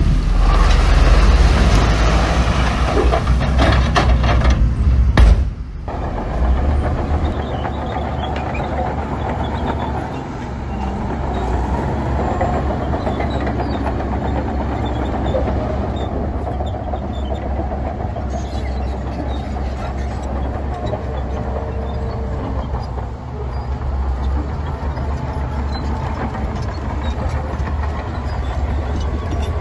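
Heavy diesel earthmoving machinery running. A loud rumble with clatter for about the first five seconds drops suddenly to a steadier low engine drone.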